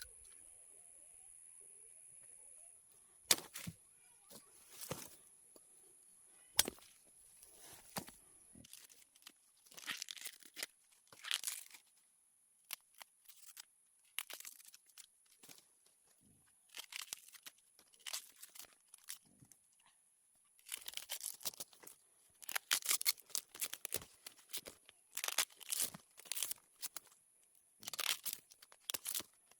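Dry leaves rustling and tearing in many irregular bursts, which come thicker and faster in the last third. A steady high-pitched buzz runs underneath and is strongest in the first few seconds.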